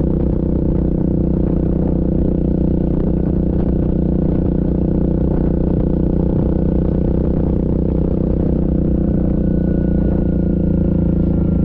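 Yamaha Grizzly ATV engine running at a steady speed under way, with a few light rattles.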